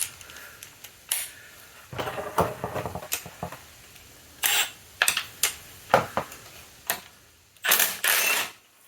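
Ratchet and 13 mm socket working loose the oil filter cover bolts on a Moto Guzzi V85TT engine: irregular metal clicks and clinks, with two longer, noisier bursts near the end.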